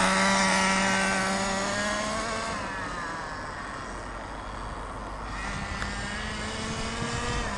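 Small two-stroke SH 18 nitro engine of an RC truck running at part throttle during break-in. It fades as the truck drives away, then grows louder again as it comes back, its pitch rising slightly near the end.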